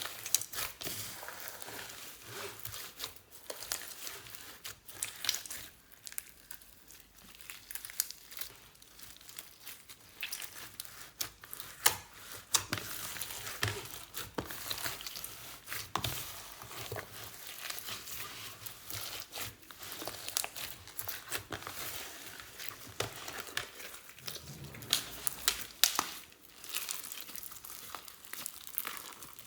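Slime being squished and worked by hand, with a dense, irregular run of small crackles and pops.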